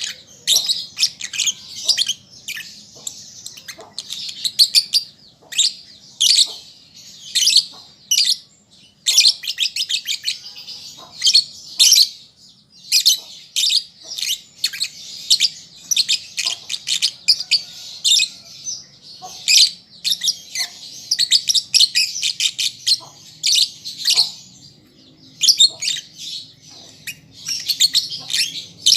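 Young lovebird singing: rapid, scratchy high-pitched twittering in short clusters that come about once a second, the song of a juvenile still learning to sing.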